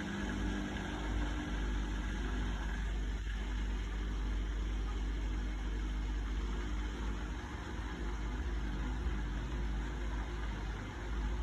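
Samsung WF1700WRW front-loading washing machine running its daily wash programme: a steady low rumble and hum from the motor and turning drum.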